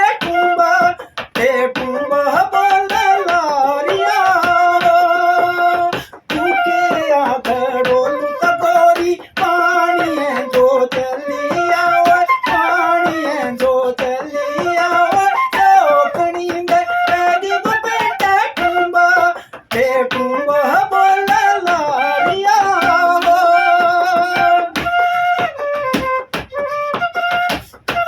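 Bansuri bamboo flute playing a melody of held notes joined by slides, with short breaks for breath and sharp clicks or taps throughout.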